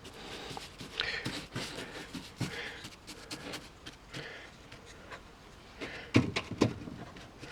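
Small handling noises from a brush dabbing glue-soaked toilet paper onto foam scenery: soft rustles and scattered light clicks, with two louder knocks a little past six seconds in.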